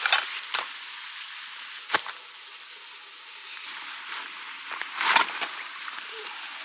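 A steady hiss with a few sharp knocks and crackles: one knock about two seconds in, and a cluster of crackles about five seconds in.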